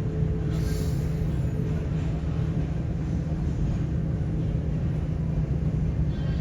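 Steady low rumble of jet aircraft engines, with a faint steady tone above it.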